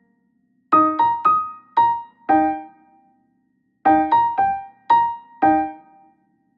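Background music: a piano-like keyboard plays two short phrases of about five single notes each, every note ringing out and fading, with a pause of about a second between the phrases.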